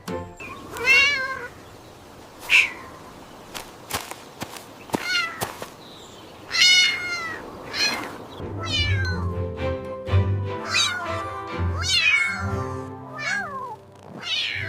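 Cats meowing repeatedly, short calls that rise and fall in pitch. Background music with sustained low notes comes in about halfway through.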